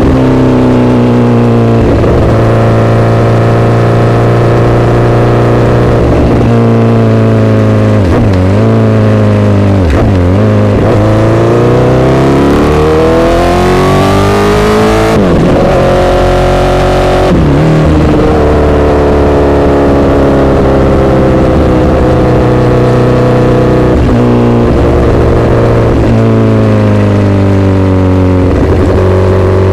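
Honda CBR1000RR's inline-four through an SC-Project aftermarket exhaust, running loud at steady revs with a couple of brief dips in pitch. About halfway through it climbs in one long rising rev, drops back twice, then holds steady again.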